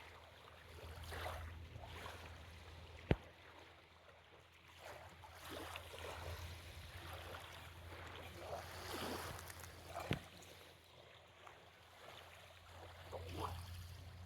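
Small waves lapping at the shoreline, softly washing in and out every second or two. Two sharp clicks stand out, about three seconds in and again about ten seconds in.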